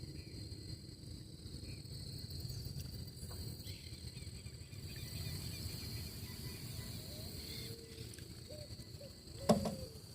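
Insects trilling steadily in a high continuous tone over a low outdoor rumble. Near the end come a few short calls, like a bird's, and one sudden knock, the loudest sound here.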